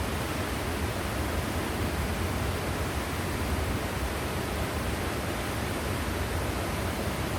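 Waterfall: falling water making a steady, unbroken rush, deepest at the low end.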